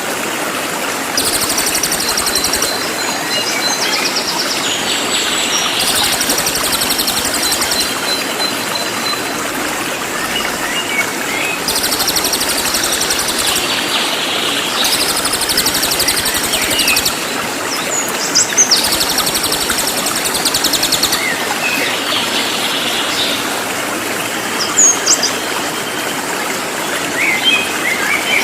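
Songbird song in bursts of very fast, high-pitched repeated notes, a second or two each, with a few short whistles between them. Under it runs the steady rush of flowing water, the loudest thing throughout.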